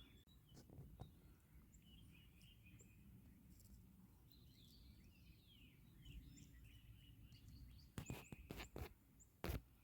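Quiet outdoor ambience with faint, distant bird chirps, then a few sharp clicks or knocks close to the microphone in the last two seconds.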